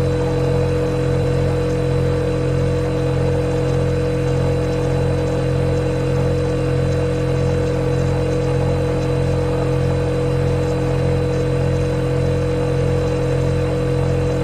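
Refrigerator running with a steady, even hum and a clear constant tone.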